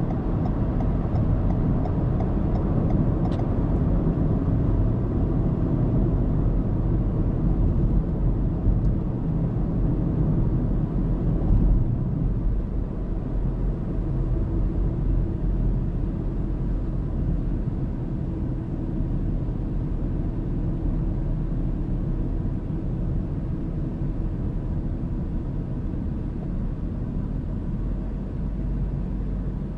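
A car driving on an expressway: steady tyre and engine rumble. There is faint regular ticking in the first few seconds.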